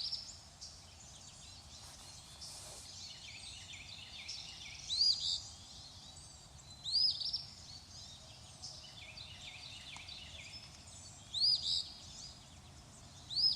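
Wild birds calling: a faint chorus of small chirps, with one louder bird repeating a short, arching call four times.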